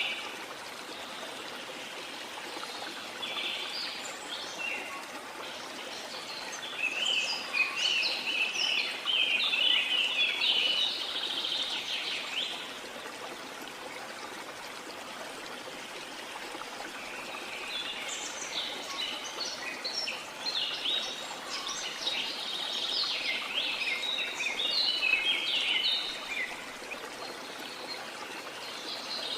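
Rainforest ambience: a steady wash of falling rain under birds calling in rapid runs of high chirps. The birdsong comes in two long bouts, one a few seconds in and another past the middle.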